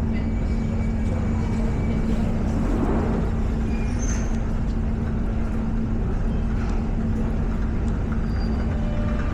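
Underground station ambience: a steady low rumble with a constant hum running under it, and a few brief faint high tones.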